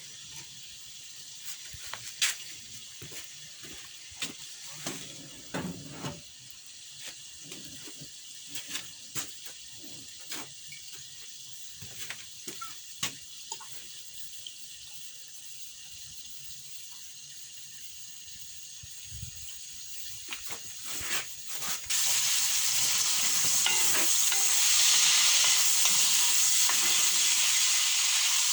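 Food frying in a pan, a steady sizzle with scattered clicks and knocks. About 22 seconds in, the sizzle turns suddenly much louder and fuller and stays that way.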